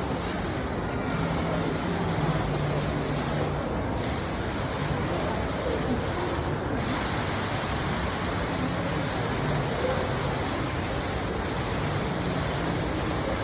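Indoor man-made waterfall: water falling and splashing in a steady, even rush.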